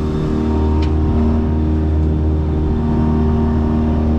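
Kicker outboard motor idling steadily, an even low hum with a constant pitch.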